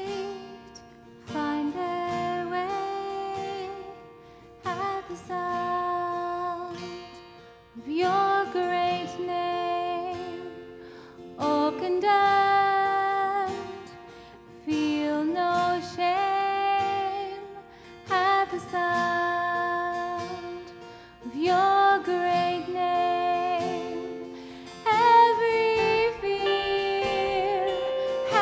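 Worship song: a woman singing in phrases a few seconds long over acoustic guitar accompaniment.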